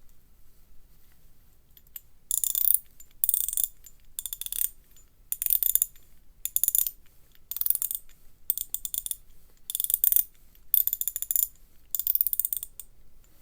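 Asahi 9.5 mm (3/8-inch) square-drive ratchet handle with a 45-tooth gear, its pawl clicking over the teeth in ten short runs about a second apart as the handle is swung back and forth. The clicking starts about two seconds in.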